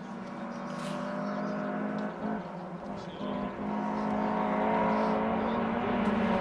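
Rally car engine running hard on a stage, with short breaks in the note about two and three and a half seconds in as the driver lifts or changes gear. It grows louder in the second half as the car comes closer.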